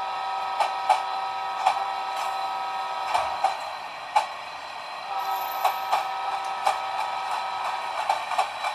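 Freight cars of a long train rolling past, wheels clicking irregularly over rail joints, with a steady metallic whine that drops out for a moment in the middle.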